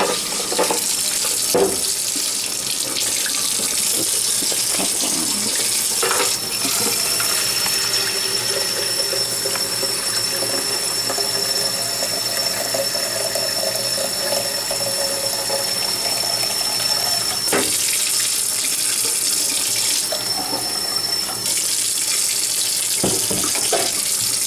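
Cold water running steadily from a kitchen tap into a thermal coffee carafe, filling it for brewing. The rush of water stops suddenly at the end.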